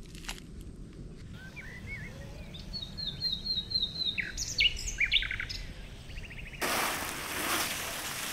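Wild birds singing: varied chirps and a quick run of repeated high notes. About two-thirds of the way through, a steady hiss starts suddenly and covers them.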